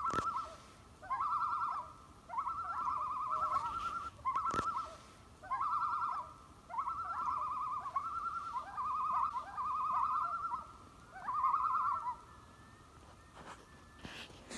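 A bird calling in a series of about ten short quavering phrases, each under a second and all on the same pitch, repeating every second or so until they stop about two seconds before the end.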